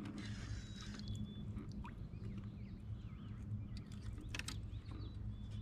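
Faint bird chirps, mostly in the middle, over a steady low hum, with a few light clicks.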